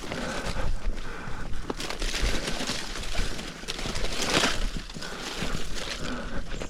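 Footsteps crunching along a dirt trail, an uneven run of steps.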